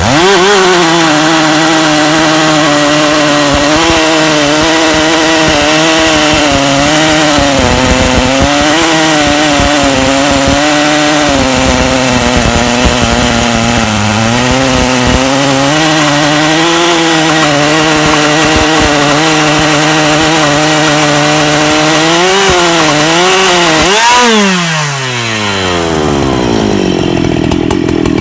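Two-stroke chainsaw on a portable chainsaw mill ripping along a log, its engine labouring under load with a pitch that wavers as the cut goes. About three-quarters of the way in the revs shoot up suddenly and then fall away to a lower, steady speed: the chain has come off the bar, and it turns out to have broken.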